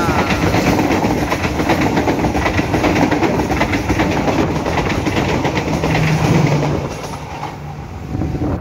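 Train of passenger coaches passing close by, steel wheels clattering rapidly over the rail joints; the clatter drops away about seven seconds in as the last coach goes by.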